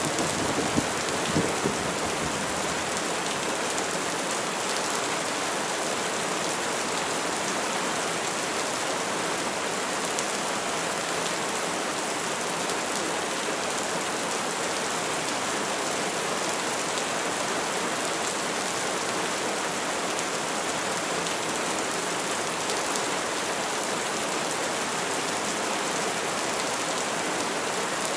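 Steady, heavy rain falling on a surface, an even unbroken hiss. The tail of a thunder rumble dies away in the first couple of seconds.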